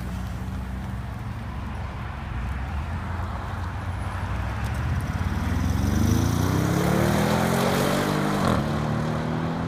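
Audi RS7's twin-turbo V8 running with a low, steady note, then rising in pitch as it accelerates from about halfway through and holding a higher, louder note near the end.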